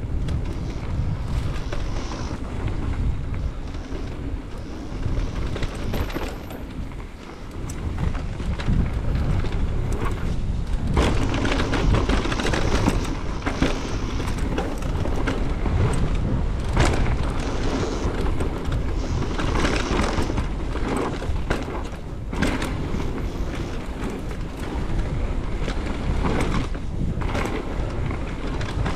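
Mountain bike riding down a dirt trail: wind buffeting the microphone, tyres rolling over the ground, and the bike clattering over bumps with frequent clicks and knocks.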